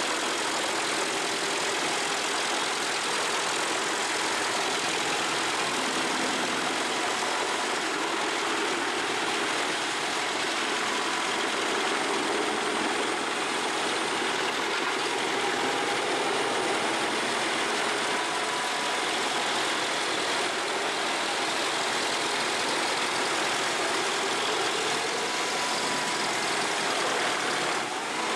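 Large 550-horsepower industrial wood shredder running, a steady, even machine noise without distinct knocks or changes.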